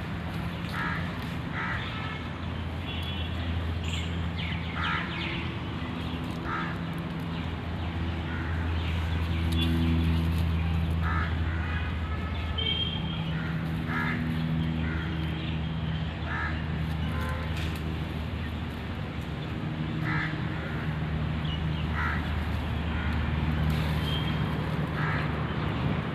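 Short animal calls repeating every second or two over a low steady hum.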